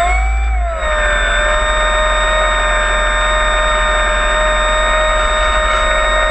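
Brushless electric motor and propeller of a HobbyKing Cessna 182 RC floatplane at high throttle, giving a loud, steady whine with a thin high tone above it. The pitch wavers during the first second, then holds steady.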